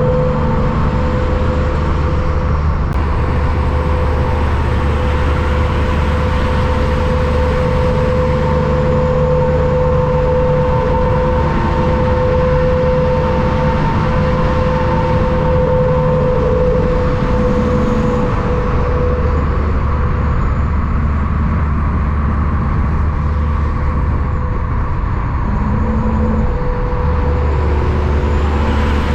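Steady motor-vehicle engine and road noise with a constant hum, holding an even loudness with no pass-by swell or fade.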